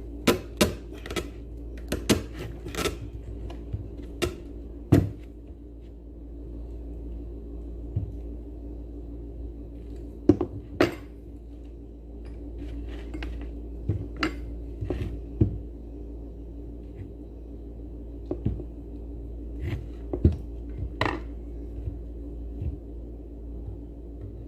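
Irregular clicks, clinks and knocks of metal parts and hand tools being handled while a blender motor is taken apart, over a steady low hum.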